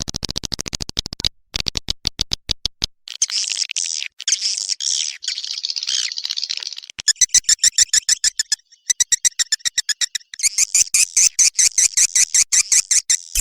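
Recorded edible-nest swiftlet calls used to lure swiftlets: a rapid train of sharp clicks for about three seconds, then a dense, high twittering chatter, then fast, evenly pulsed trills of several pulses a second.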